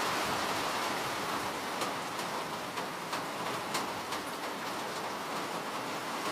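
Steady rain, an even hiss with a scattering of individual drops ticking sharply on a surface, most of them between about two and four seconds in.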